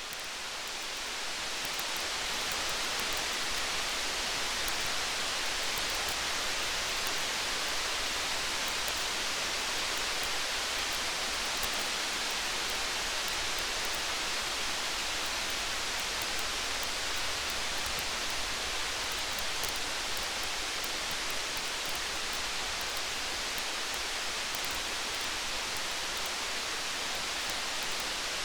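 Steady hiss of rain, fading in over the first couple of seconds and then holding even, with faint scattered high ticks on top.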